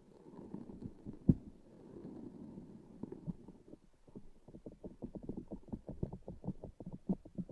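Close-miked sticky squishing and tapping on a transparent sticky ASMR object. There is a sharp tap about a second in, and from about halfway a fast run of soft sticky taps, several a second.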